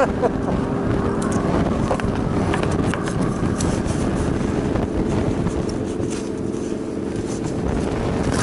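Motorcycle engine running at a steady speed, with wind rushing over the microphone.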